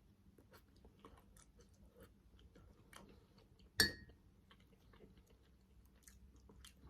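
Close-miked chewing of manti dumplings: soft, irregular wet mouth clicks. One much louder, sharp click with a short ring comes just under four seconds in.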